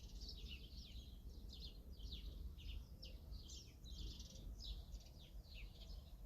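A chorus of small birds chirping, many quick falling chirps one after another and overlapping, over a faint low rumble.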